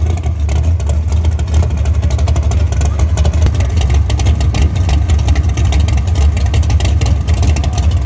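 Dragster engine running loudly and steadily at idle.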